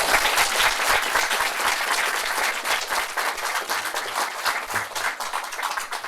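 An audience applauding, dense steady clapping that thins slightly toward the end.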